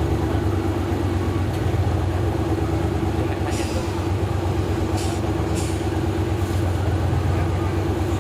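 Off-road 4x4 vehicle's engine running steadily, with a few short hisses about three and a half and five seconds in.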